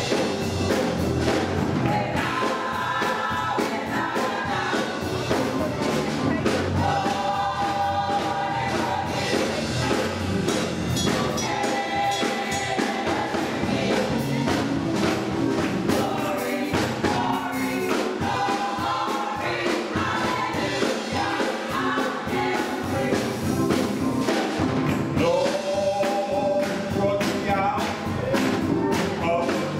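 A gospel choir singing with accompaniment that keeps a steady beat.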